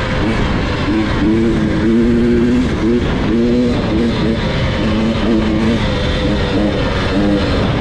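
Enduro dirt bike engine revving, its pitch repeatedly rising, falling and dropping off as the throttle is worked on the trail.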